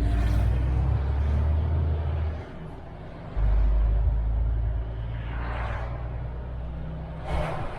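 MAN TGX truck engine running with a heavy low rumble that drops away about two and a half seconds in and comes back a second later, then eases off. Short hissing swells follow near the end.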